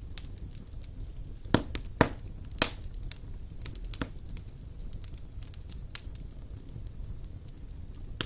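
Wood fire burning in a fireplace: a low steady rumble with scattered crackles, and three louder pops in quick succession a couple of seconds in.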